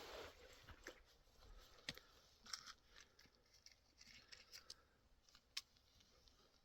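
Near silence, broken by a few faint, short clicks and rustles.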